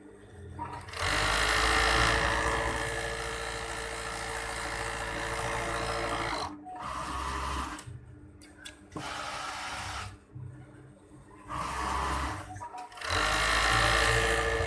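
Industrial overdeck (coverstitch) sewing machine stitching in bursts. It starts about a second in and runs for about five seconds, then stops and starts again in several shorter runs with brief pauses between.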